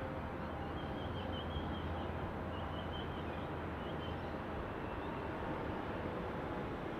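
Steady distant rumble of a Boeing 747-400 freighter's jet engines passing over, heard against city background noise. A bird twitters briefly in the first few seconds.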